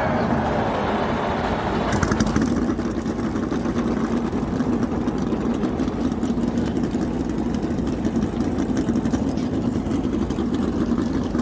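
A field of NASCAR Cup Series stock cars' V8 engines firing up together about two seconds in, then running as a dense, steady rumble with a rapid crackle of uneven firing and throttle blips.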